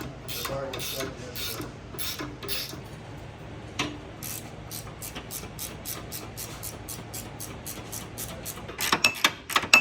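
Hand ratchet wrench clicking as a bolt or nut is turned: a steady run of about five clicks a second, louder near the end.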